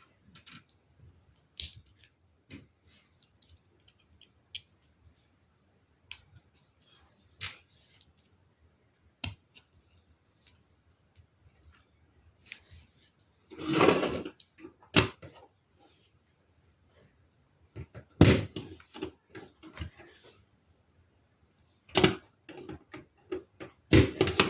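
Plastic LEGO Technic parts being handled and pressed together: scattered small clicks, with several louder brief clatters in the second half.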